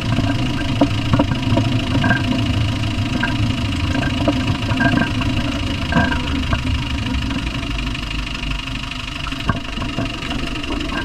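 Land Rover 300Tdi 2.5-litre four-cylinder turbodiesel running, with sharp irregular knocks over the steady engine note, thinning out near the end. The cause of the knock is unknown to the owner.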